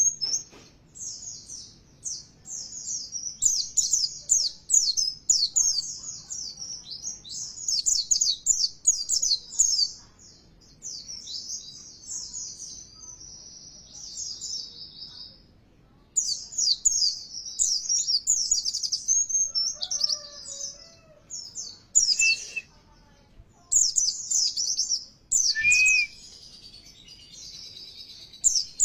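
White-eye (pleci) singing a fast, high-pitched twittering song in rapid runs of notes, with a brief pause about halfway through. It is a lure song of the kind played to set caged white-eyes singing.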